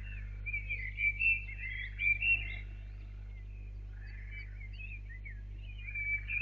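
Songbirds singing in quick chirps and trills, in two bursts, over a steady low hum.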